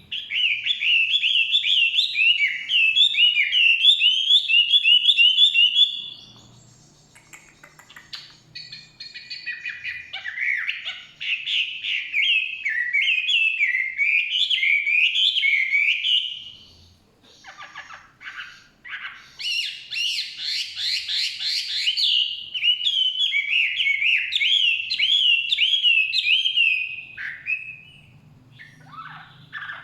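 Chinese hwamei (wambi) singing: a loud, rapid, varied song of warbled and repeated whistled notes, broken by short pauses about six seconds in and again about seventeen seconds in.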